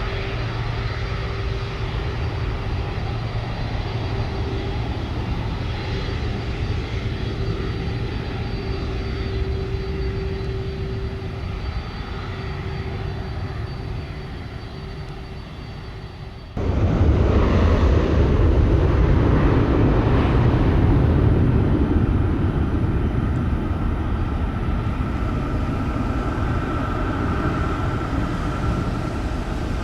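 Jet aircraft engines running, a steady noise with a faint hum over it. About halfway through it cuts abruptly to louder jet engine noise, and a high whine rises out of it near the end.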